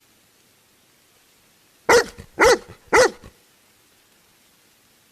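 A dog barking three times in quick succession, about half a second apart, starting about two seconds in.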